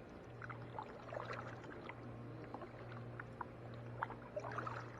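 Faint water sounds around a kayak: scattered small drips and light splashes over a steady low hum.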